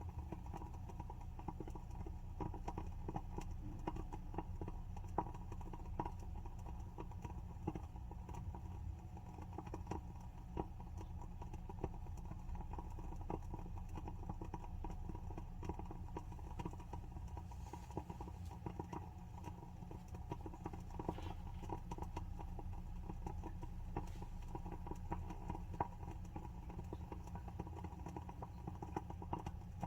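WoodWick candle's wooden wick burning, crackling steadily with many small, irregular pops and clicks.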